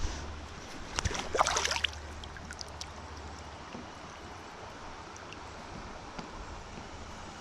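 River water flowing steadily, with a brief crackling splash about a second in.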